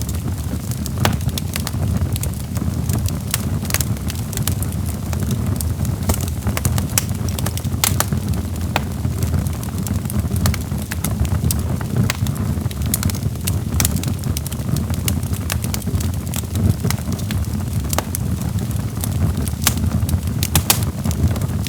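Logs burning in a fireplace: frequent sharp, irregular crackles and pops over a steady low rumble of the flames.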